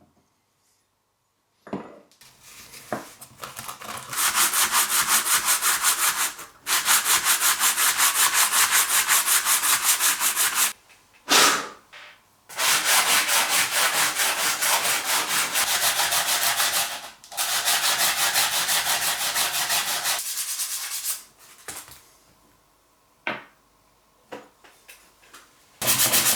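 Hand sanding with sandpaper: rapid, even back-and-forth scratching strokes in several long runs, with short pauses and a few isolated scrapes between them.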